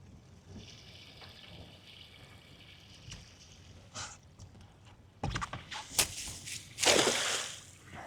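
Cast net being handled and thrown: a run of clicks and knocks about five seconds in, then a splash of about a second as the net hits the water.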